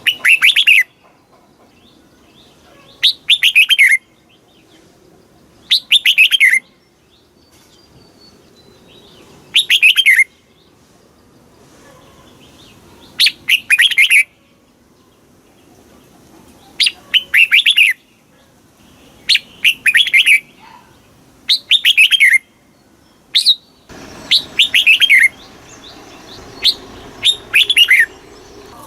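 Red-whiskered bulbul singing: short, loud phrases of quick falling notes, repeated every few seconds and coming closer together in the second half.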